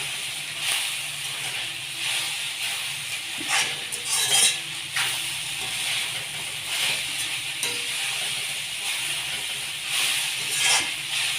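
Vegetable fried rice sizzling in an iron kadai as it is stirred and tossed, a steady frying hiss with a spatula scraping and knocking against the pan every second or two.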